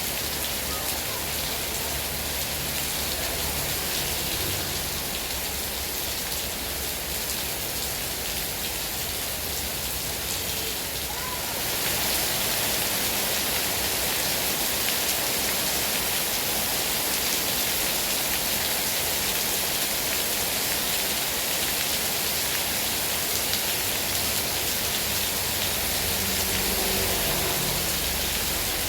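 Heavy rain falling steadily in a dense, even hiss, growing a little louder about twelve seconds in.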